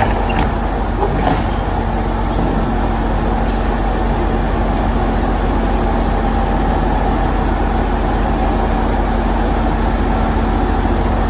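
Steady drone of an idling diesel engine, with a couple of short knocks in the first second or two.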